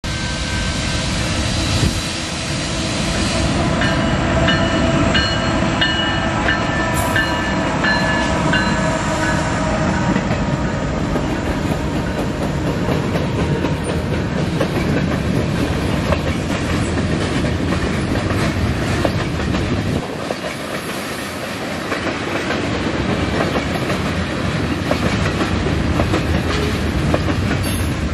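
Canadian National manifest freight train passing close by: the locomotives rumble past, then covered hoppers and tank cars roll by with a steady clickety-clack of wheels over the rail joints. A chord of pitched tones sounds on and off between about four and ten seconds in.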